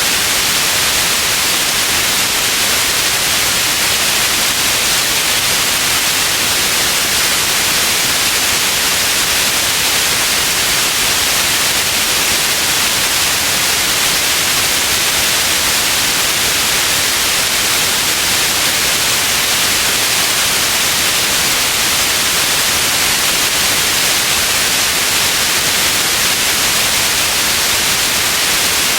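Steady white noise: an even, loud hiss, brightest in the treble, with no change in level.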